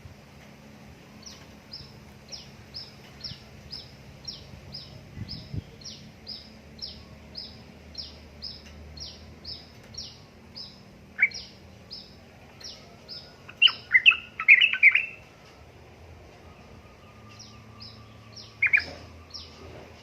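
Yellow-vented bulbul (trucukan) song: loud, bubbly warbled phrases, one about halfway through, a longer run a little after, and another near the end. A steady series of short high chirps, about two a second, runs through the first half and returns near the end.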